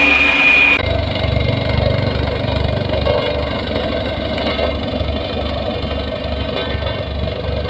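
A heavy diesel engine of road-construction machinery running steadily with a low, regular throb. A high steady whine cuts off abruptly just under a second in.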